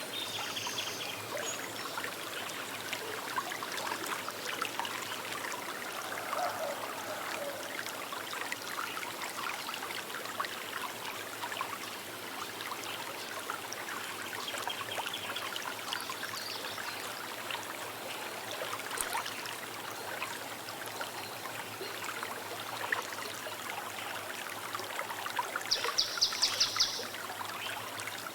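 Small river running steadily over stones, an even babble of flowing water. Birds call briefly now and then, and a loud, rapid high trill sounds near the end.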